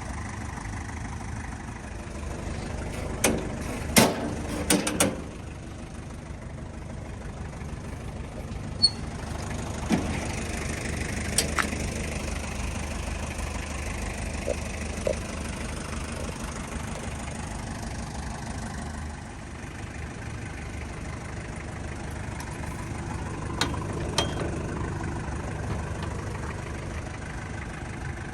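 Mazda Bongo Brawny's diesel engine idling steadily, with a few sharp clicks and knocks: a cluster about three to five seconds in and single ones later.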